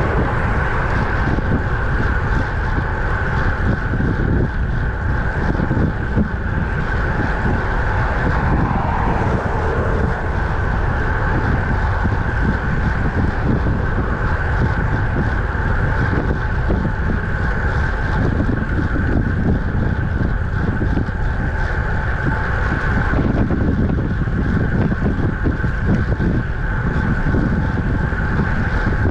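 Steady wind rush on the microphone of a camera riding on a road bicycle at speed, with a low rumble under a faint steady whine.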